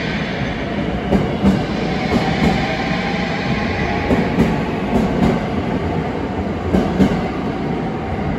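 Ainokaze Toyama Railway 521-series electric train pulling out alongside the platform, with a steady rolling rumble. Its wheels clack over rail joints in pairs, about once a second, as each car's bogies pass.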